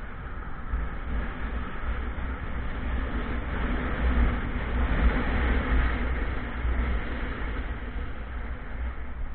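Motorcycle riding at speed: steady road and wind noise with heavy, uneven wind rumble on the microphone over a faint engine note, swelling slightly in the middle.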